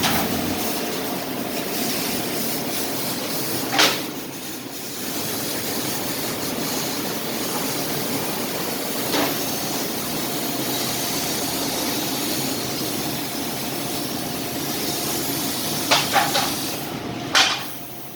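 Fiber laser cutting machine cutting sheet iron or stainless steel: a steady hiss, with a few sharp clicks about four seconds in and several near the end.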